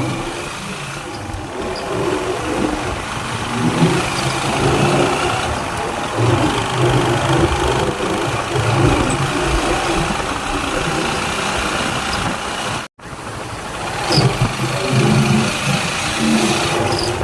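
Vehicle engine running, with an uneven rumble, cut off abruptly for an instant about 13 seconds in.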